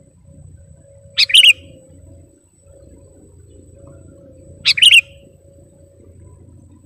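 Sooty-headed bulbul (kutilang) giving two short, loud calls about three and a half seconds apart, over a faint steady hum.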